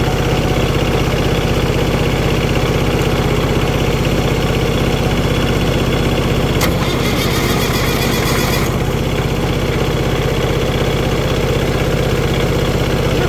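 Diesel tractor engine idling steadily after its fuel system has been bled. Halfway through, a sharp click is followed by about two seconds of hiss.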